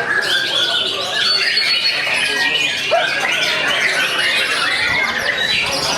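Many caged songbirds singing at once, white-rumped shamas among them: a dense, unbroken tangle of overlapping chirps, trills and whistles.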